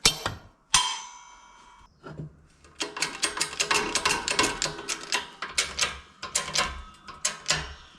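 Metal tools pressing a broken wheel stud out of a brake drum: a sharp click, then a metallic clang that rings for about a second, followed from about three seconds in by a quick run of clicks and taps.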